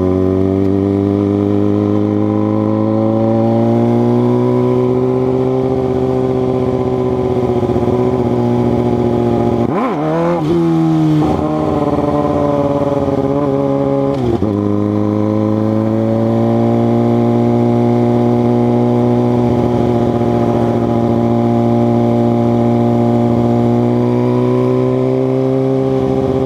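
2006 Suzuki GSX-R 600 inline-four engine running under way, its note climbing slowly and then holding steady. Between about ten and fourteen seconds in the note breaks and changes pitch, as with a gear change or throttle change. It then climbs again and holds steady.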